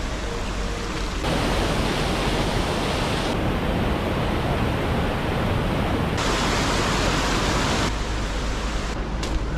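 Rushing water: a steady, loud hiss that jumps up about a second in and then changes abruptly in brightness several more times.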